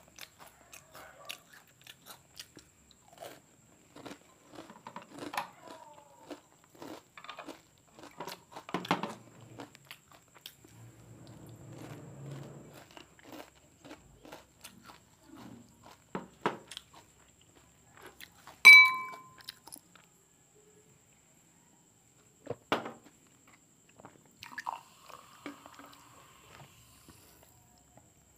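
Close-up crunching and chewing of the last crunchy snack bits, with scattered small clicks. About two-thirds of the way through a glass bowl clinks once, sharply, with a short ring; this is the loudest sound.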